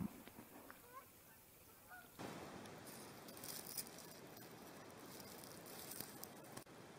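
A few faint, distant bird calls in the first two seconds, then an abrupt change to a steady, quiet hiss with a few light clicks.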